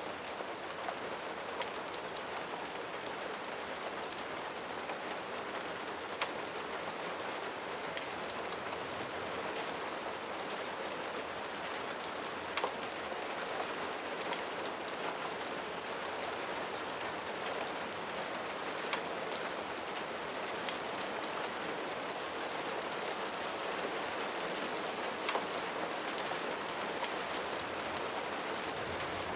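Steady rain falling, an even hiss of drops, with a few isolated sharp pops scattered through it.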